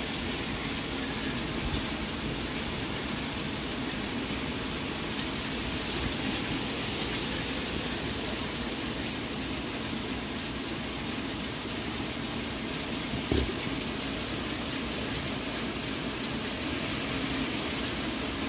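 Steady hiss of heavy rain mixed with pea-sized hail coming down, with one brief knock about thirteen seconds in.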